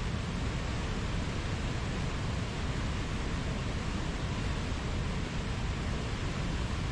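Large stream of water gushing out of a mountainside, a steady rushing noise.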